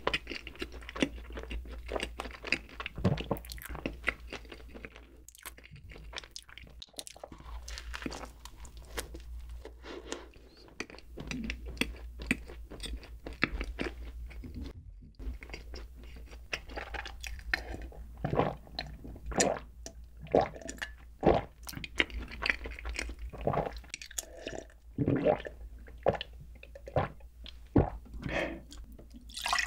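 Close-miked wet chewing of a soft cream-filled bun, with many small irregular mouth clicks and smacks, growing louder in the second half. A faint steady low hum lies underneath.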